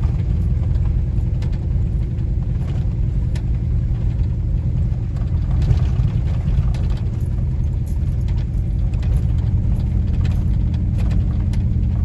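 Steady engine and road rumble heard inside a moving truck's cabin, with faint scattered ticks over it.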